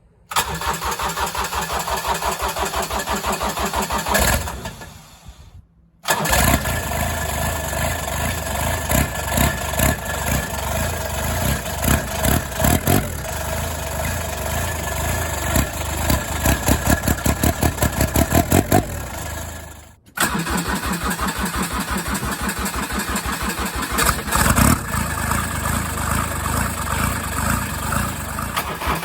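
Bobcat UTV's turbo diesel engine cold-starting and running with a steady pulsing idle, revved up now and then. The sound dies away once about five seconds in and breaks off sharply near twenty seconds, picking up again each time.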